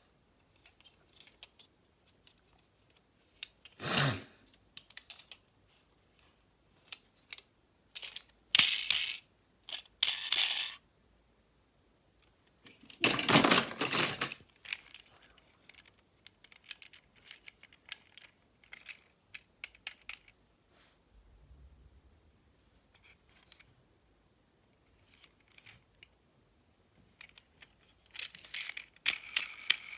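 Small hard objects clicking and clattering in irregular short bursts, with faint scattered clicks between and louder clatters about 4 seconds in, around 9 to 10 seconds, around 13 to 14 seconds and near the end.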